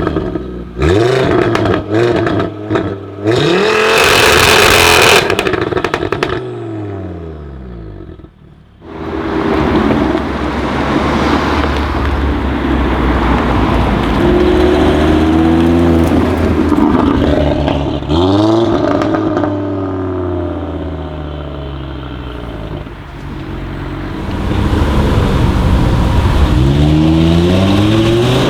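Audi RS3 8V's turbocharged five-cylinder engine with aftermarket downpipes, revving and accelerating hard. A run of short sharp blips and crackles comes first, then a loud rushing burst and a falling engine note. After a brief lull the engine runs again, its pitch rising and falling several times.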